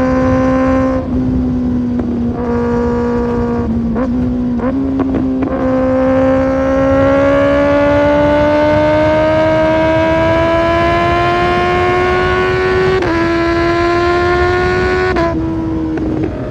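Kawasaki ZX6R's inline-four engine through an Arrow Pro Race exhaust, pulling hard under load. A few quick breaks in the note early on, then a long steady climb in pitch from about six seconds in, broken again near the end.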